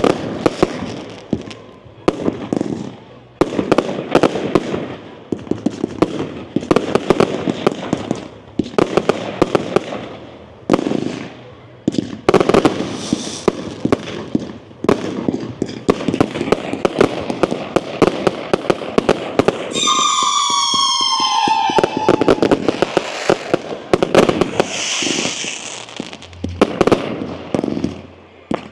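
Fireworks going off in rapid volleys of bangs and crackling, with short lulls between volleys. About two-thirds of the way through, a whistling firework gives a falling whistle.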